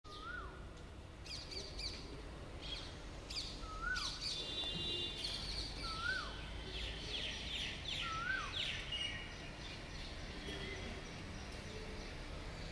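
Birds calling outdoors: one bird repeats a short call that rises then falls four times, a few seconds apart, over a busy chorus of higher chirps and trills. A steady low rumble runs underneath.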